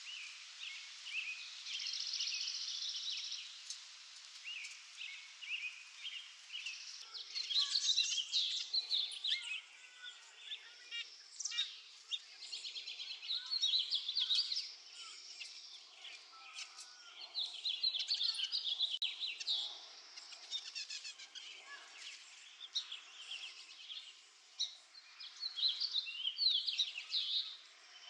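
Birds chirping and calling outdoors, many short calls overlapping, busier from about seven seconds in.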